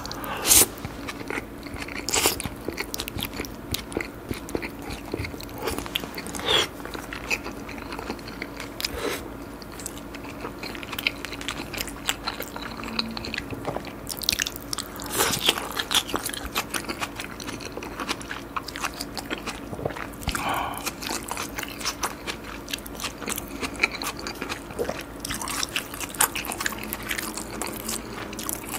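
Close-miked chewing of a mouthful of two salmon nigiri eaten at once: a steady run of small mouth clicks with a few louder bites, the loudest about half a second in.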